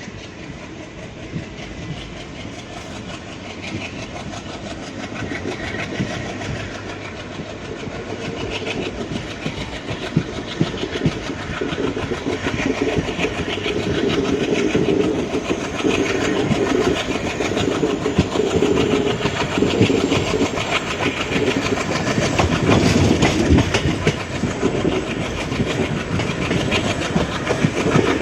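Indian Railways WDG3A diesel locomotive's ALCO 16-cylinder engine running, getting steadily louder.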